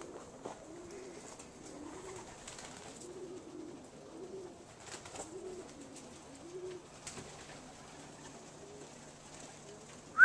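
Racing homing pigeons cooing, a continuous run of short, low coos overlapping one another, with a few faint clicks among them.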